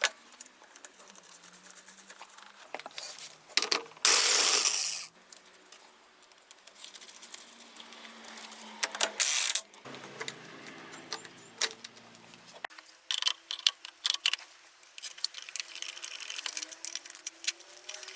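Small metal scooter variator parts and hand tools clinking and knocking as the drive belt and variator are fitted, with two loud rushing bursts of noise, about a second long, around four and nine seconds in.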